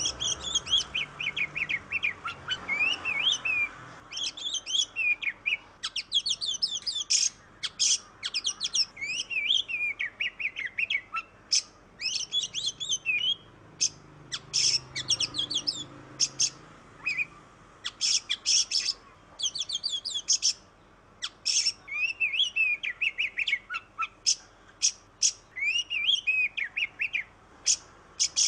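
Oriental magpie-robin (kacer) singing without pause: a dense run of rapid, varied warbling whistles and fast stuttered note series.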